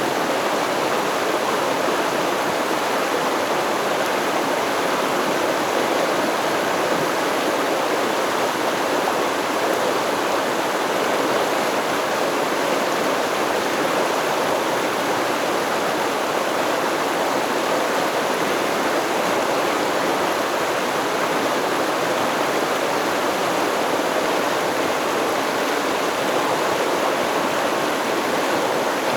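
Stream water flowing over rocks: a steady, unbroken rush and babble.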